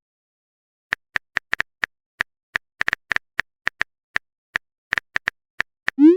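Phone keyboard typing sound effect: a quick, uneven run of short taps, starting about a second in.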